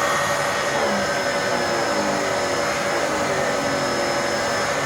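Vacuum suction running through a Dyson DC-14 air-driven hand turbo tool, its brush turbine spinning on the higher speed setting. The sound is a steady rush of air with a constant high whine and a few faint falling tones.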